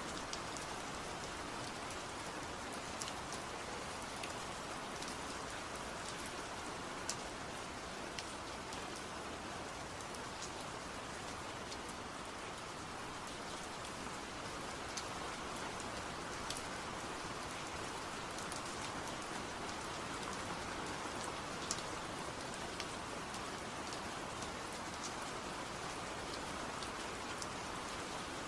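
Steady rain: an even hiss of falling rain with scattered sharper drop ticks.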